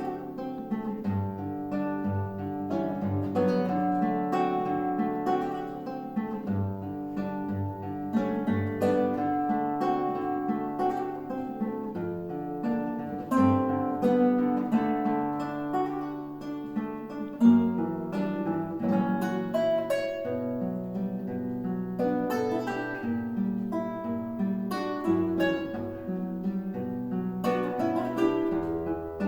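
Duet of plucked string instruments, most like guitars, playing a slow piece: repeated bass notes under a picked melody.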